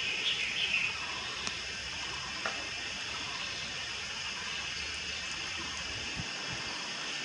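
A juvenile Malayan night heron gives a short run of calls in the first second, over a steady high hiss.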